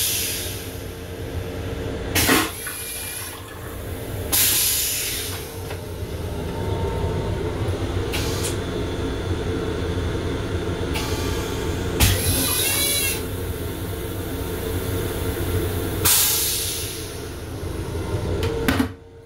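Long Island Rail Road M7 electric train running, heard from inside its small restroom: a steady low rumble broken by several short, loud hisses.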